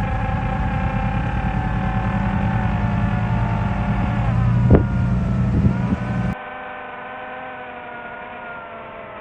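A motor running with a steady multi-tone hum whose pitch drifts up and down. About six seconds in it cuts abruptly to a quieter, thinner hum.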